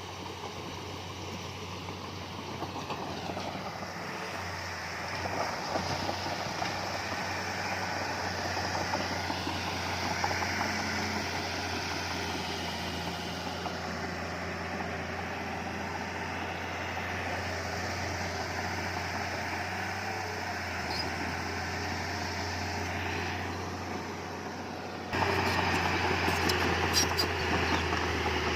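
Diesel engines of heavy earthmoving machinery, a bulldozer and dump trucks, running steadily with a deep hum. About 25 seconds in the sound jumps suddenly louder, and a few sharp metallic clicks follow.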